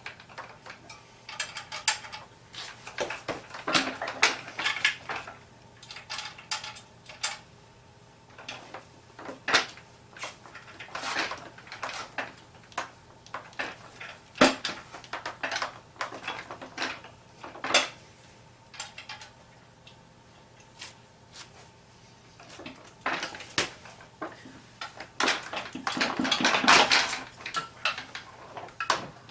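Metal parts and hand tools clinking and knocking irregularly during hands-on assembly of a car transmission to an electric motor. The busiest flurries of clatter come a few seconds in and again near the end.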